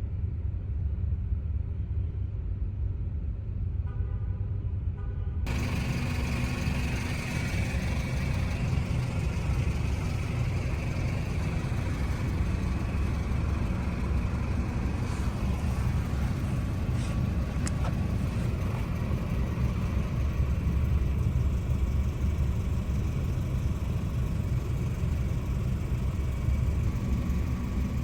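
Steady low rumble of a motor vehicle, with a few faint clicks in the middle.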